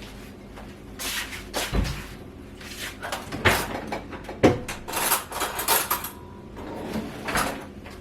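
Someone tasting a sticky cola-glazed chicken drumstick: a string of short, irregular mouth and handling noises as the meat is bitten and chewed.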